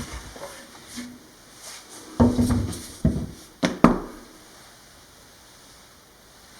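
A few thuds and knocks, the loudest a cluster about two seconds in, another about three seconds in and a quick pair near four seconds in, ringing briefly in a small room.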